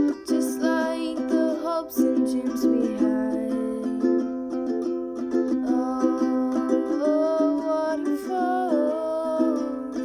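A voice singing a slow, gentle melody over steadily strummed chords on a small plucked string instrument.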